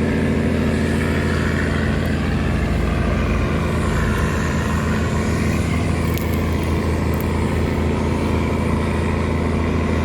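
A tugboat's engine running steadily and loudly under load, towing a string of laden cargo barges.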